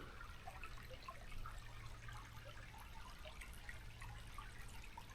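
Faint trickling and dripping of a small spring's flow, made of scattered small plinks.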